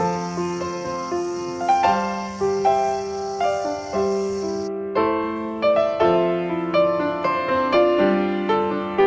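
Background piano music: a slow, gentle melody of single struck notes over low bass notes. A faint high hiss under it stops abruptly about halfway through.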